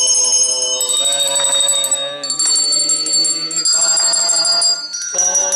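Electronic keyboard playing a run of held notes with a bright, bell-like tone. The note changes about every second and a half.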